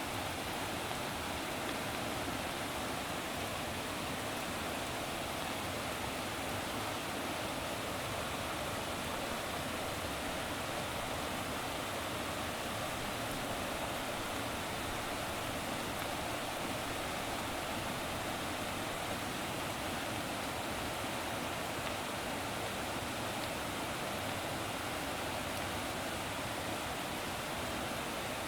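Running water making a steady, unbroken rush with no breaks or swells.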